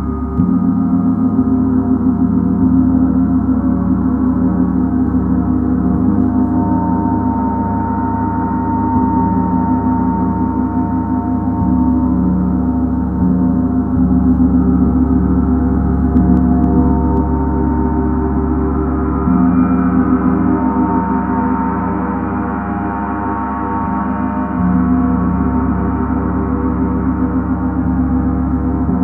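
Gong played continuously: a sustained wash of many overlapping ringing tones. It is struck afresh about half a second in, then swells and eases gently without dying away.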